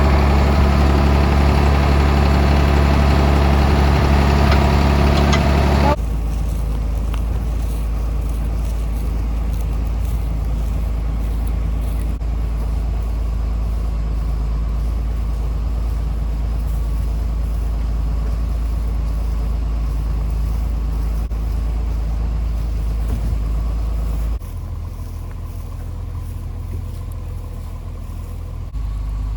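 Large farm tractor's engine running steadily while pulling a trailer. The engine note is loudest for the first six seconds, then drops abruptly, and drops again near the end.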